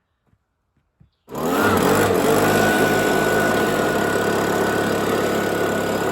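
A small gasoline engine cuts in abruptly about a second in and runs steadily at a buzzy, even speed, with a brief pitch rise as it comes in.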